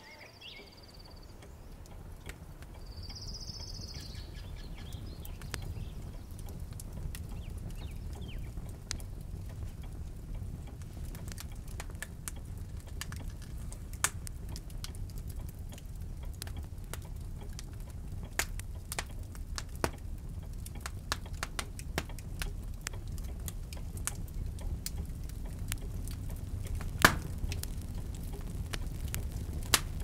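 Fire crackling in a brick fireplace: scattered sharp pops that come more often after about ten seconds, one louder pop near the end, over a low steady rumble. Two short high bird chirps in the first few seconds.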